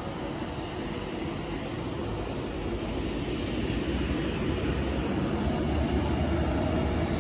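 Avanti West Coast Class 390 Pendolino electric train passing through the station: a steady rushing roar of wheels and air that slowly grows louder, with a deep rumble building in the second half.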